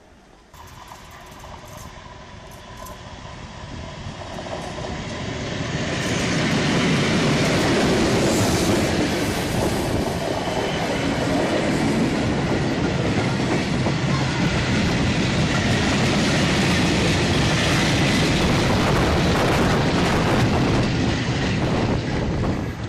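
Train running on the rails. The noise grows louder over the first six seconds, then holds steady and loud.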